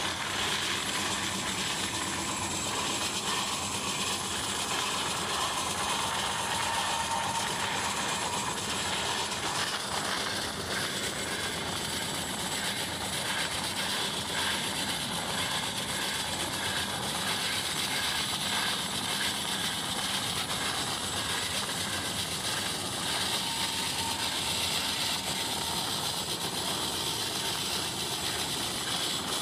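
Steady running noise of a moving passenger express train heard from a coach doorway: wheels on the rails, the coaches rattling and rushing air.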